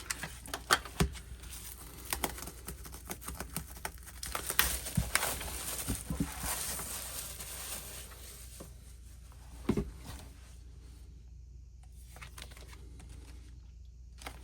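Plastic wrapping on an album photobook crinkling and tearing as it is unwrapped by hand, with scattered light taps and clicks of handling, busiest in the middle.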